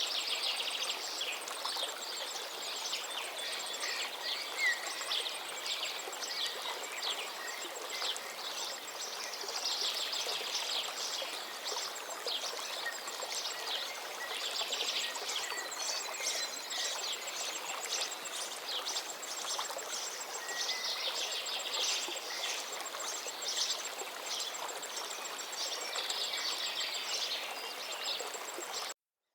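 Forest river flowing steadily, with songbirds singing busily over it, many quick chirps and trills and a thin, high repeated note. The sound cuts off suddenly near the end.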